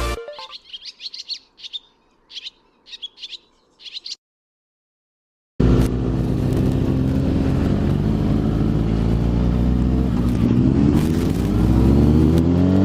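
Birds chirping in short bursts for about four seconds, then a brief dead silence. Then a sport bike's engine starts up loud and steady, with its pitch rising near the end as the bike accelerates.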